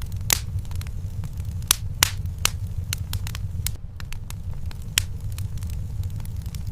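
Wood fire in a fireplace crackling, with sharp irregular pops over a low steady rumble; the loudest pops come about two seconds in and at five seconds.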